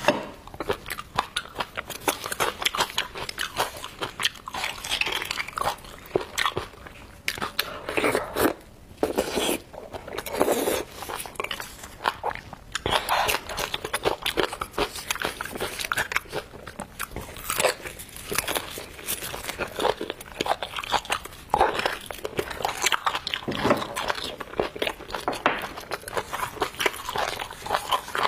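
Close-miked biting and chewing of braised beef bone marrow and the meat on the bones, a dense run of short sharp clicks and mouth noises.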